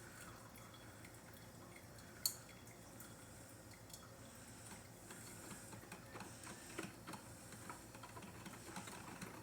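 Faint room tone with scattered small clicks and taps, one sharper click about two seconds in.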